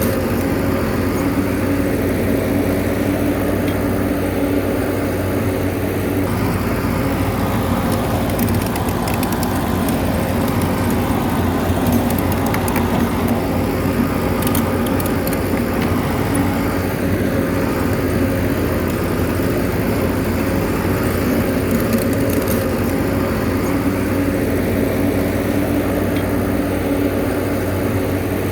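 Bulldozer's diesel engine running steadily, with faint clicks now and then.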